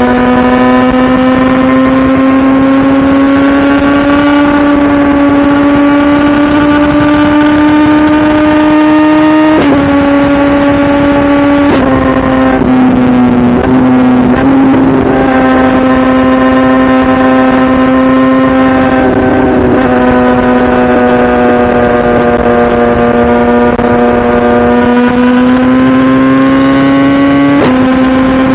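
2017 BMW S1000RR's inline-four engine pulling steadily at road speed, its note climbing slowly and changing pitch abruptly several times with gear changes and throttle changes.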